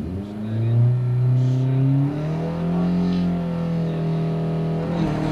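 Skoda Fabia 1.4 rally car's engine, revved up just after the start and held steady at high revs while the car stands waiting to launch. The revs dip near the end as the clutch is let out and the car moves off.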